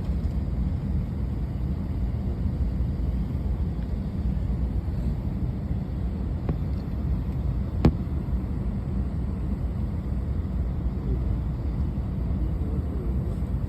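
Steady low rumble inside the cabin of an Airbus A321 during pushback, with one sharp click about eight seconds in.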